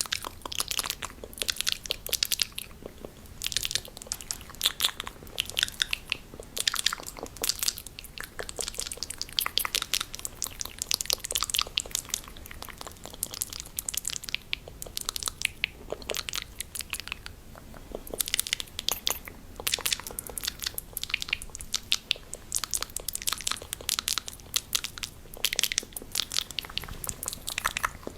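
Fast ASMR mouth sounds: a dense, irregular stream of rapid clicks and smacks, coming in quick clusters with short gaps.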